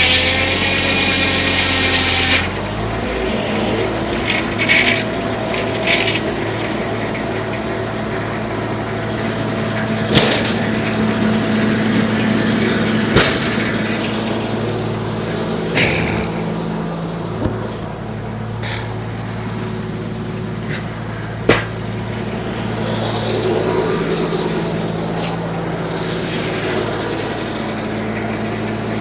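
Homemade circular sawmill driven off a tractor's PTO: the blade finishes a cut about two seconds in, then the tractor engine and the spinning blade run on steadily, with a few sharp knocks of wood or metal.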